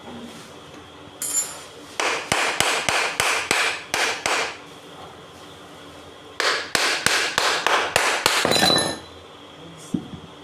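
Hammer blows on the metal parts of an electric water pump during a bearing replacement: one blow, then two runs of quick, evenly spaced taps, about three a second, with a metallic ring.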